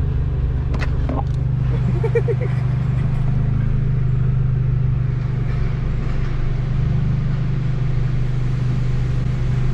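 Modified VW R's turbocharged engine, with custom exhaust and a catless downpipe, idling with a steady low rumble. A few light clicks about a second in and a short pulsed sound about two seconds later.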